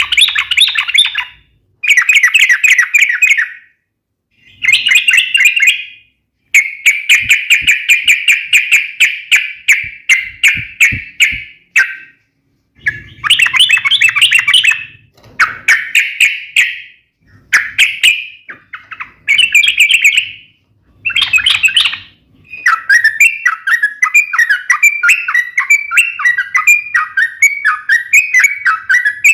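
Yellow-vented bulbul (trucukan) singing loudly in rapid bursts of chattering notes separated by short pauses. About two-thirds of the way through, it breaks into a continuous run of bubbling, warbled phrases.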